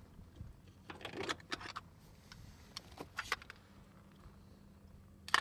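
Scattered light clicks and rattles of small objects being handled, over a faint steady low hum, with one sharp click near the end.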